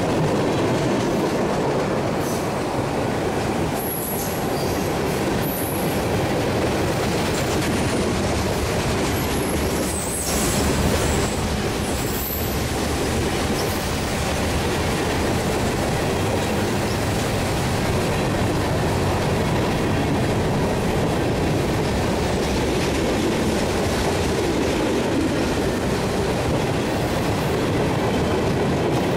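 Freight train cars rolling past with a steady rumble of wheels on rail, and a few brief high-pitched wheel squeals in the first half.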